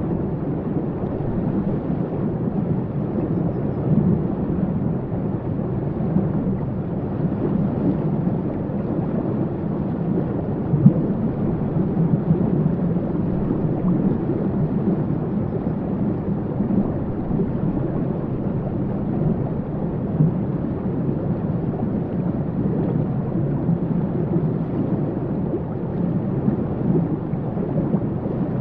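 Waterfall rushing steadily, a constant deep roar of falling water with most of its weight low down and little hiss.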